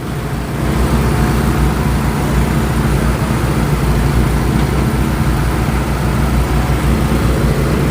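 Engine of an Eastonmade Axis firewood processor running steadily, growing a little louder about half a second in.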